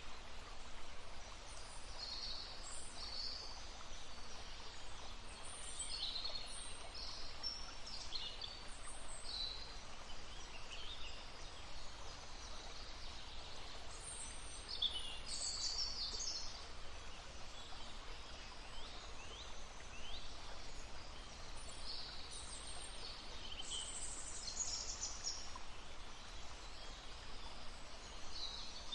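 Songbirds chirping and calling in short, high-pitched phrases with quick sweeping notes, coming in clusters, over the steady rush of a babbling brook.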